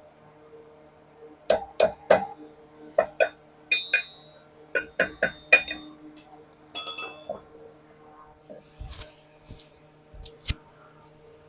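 Metal tools and motorcycle sprocket parts clinking and knocking against each other in a quick irregular series, some strikes ringing briefly, then a few scattered clicks. A steady low hum runs underneath.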